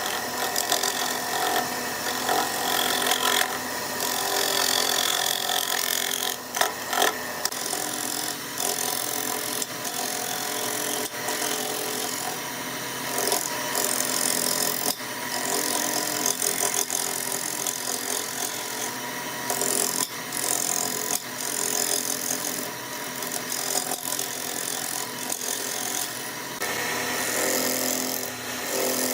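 Wood lathe running, with a turning tool cutting the spinning wood: a steady motor hum under an uneven hiss of cutting, with a few sharp knocks about six to seven seconds in.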